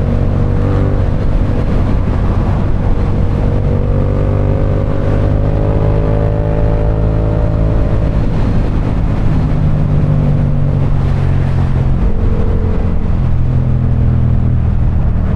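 Motorcycle's parallel-twin engine running at a steady cruise, heard from the rider's position with road and wind rush. The engine note eases slightly about twelve seconds in, then picks up again.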